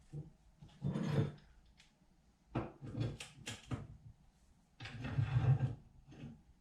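Steel plate and hand tools being handled while sheet metal is bent in a brake: three short bouts of scraping, sliding and clattering, the middle one a run of sharp clicks.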